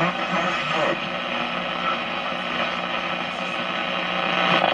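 Hallicrafters S-40B tube shortwave receiver's loudspeaker giving a steady hiss of static, with a faint voice from a weak station in the first second. The sound breaks off sharply for a moment near the end.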